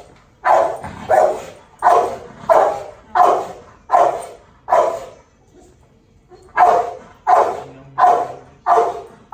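A dog barking in a rapid, even string, about one bark every two-thirds of a second, breaking off for a moment midway and then starting again. It is leash-reactive barking, which the trainer calls pretty severe.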